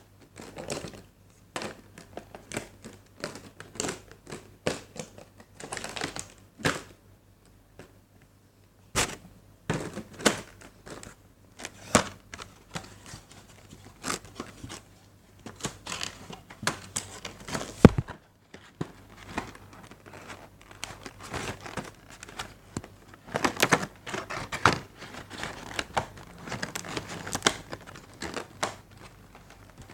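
Hands handling the packaging of a model airliner during unboxing: irregular crinkling of plastic wrap, clicks and knocks, with a quiet pause near the first third and one sharp loud knock about halfway through.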